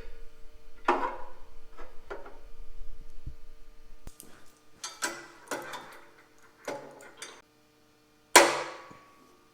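Metal clanks and knocks as clamps and fixture pieces are set against a thick aluminum part, about ten separate strikes, with the loudest, ringing clank about eight seconds in.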